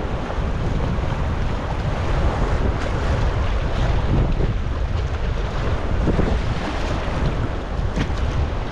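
Wind buffeting the microphone in a steady low rumble, over the wash of sea waves around a sea kayak.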